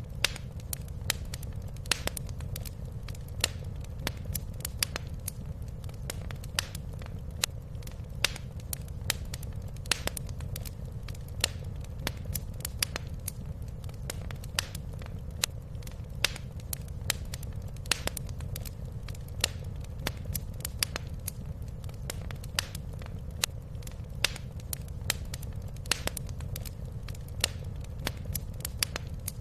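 Wood fire crackling in a fireplace: sharp pops and snaps at irregular intervals over a steady low rumble.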